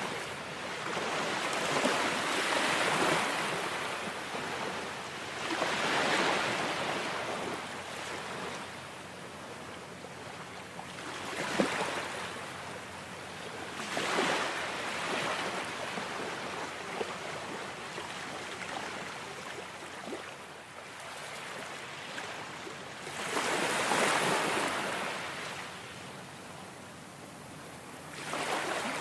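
Ocean surf: waves breaking and washing up the shore in a steady hiss that swells and eases every few seconds, with a longer lull between the surges in the middle.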